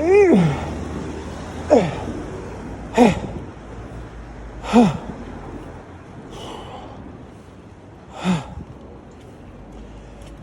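A man cycling and out of breath, puffing and gasping heavily from the effort of pedalling. About six loud exhalations come every second or two, most of them voiced and falling in pitch, over a low steady rumble.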